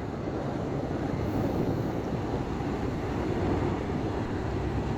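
Steady low mechanical rumble of a docked ferry's engines running.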